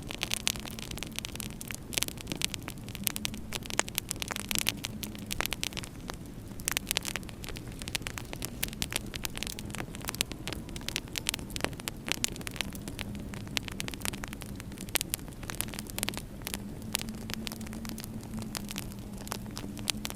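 Wood fire crackling in a fireplace, with many irregular sharp pops over a steady low hum.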